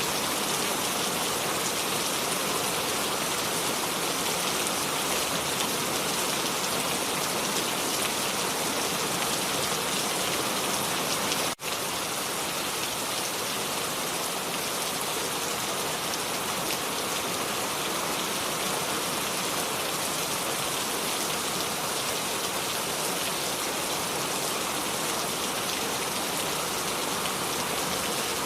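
Steady rain falling on surfaces, a dense even hiss of many drops with no thunder. The sound dips out for a split second a little over a third of the way in.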